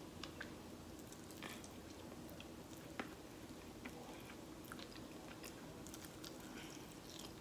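Faint chewing and biting on a buffalo chicken wing held in the hands, with small scattered mouth clicks, one a little louder about three seconds in.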